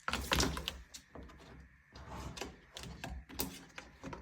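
Irregular taps, knocks and scrapes against a book as it is handled, with a few sharper knocks about a second in and again past three seconds.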